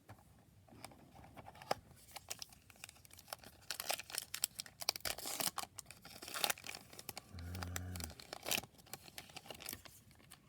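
Foil wrapper of a trading-card pack being torn open and crinkled by hand, with irregular crackling and rustling that comes and goes.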